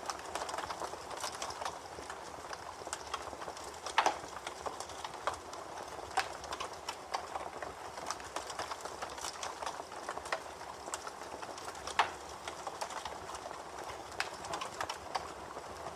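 Campfire crackling: a continuous patter of small crackles, with a few sharper, louder pops, the loudest about four and twelve seconds in.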